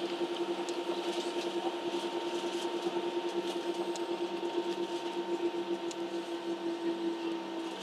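Steady hum inside a Ryanair Boeing 737 cabin while taxiing, the jet engines idling and the air system running, with a droning tone that wavers rapidly.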